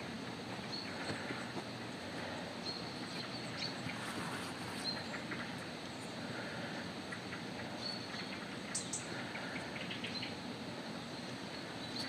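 Outdoor forest ambience: a steady background hiss with faint, short high chirps a few seconds apart and scattered light crunches or rustles.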